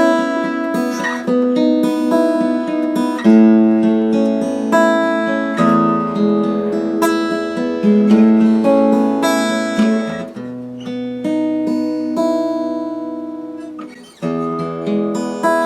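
Acoustic guitar being played, picked and strummed chords changing about every second. About ten seconds in, one chord is left to ring and die away before the playing starts again.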